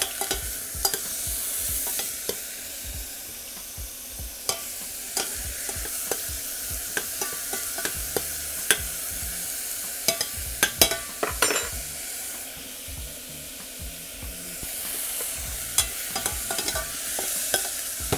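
Fries deep-frying in a pot of hot fat with a steady sizzle, while a spoon stirs a steel pot of tomato-blueberry salsa, giving irregular clicks and scrapes against the pot, busiest about ten seconds in.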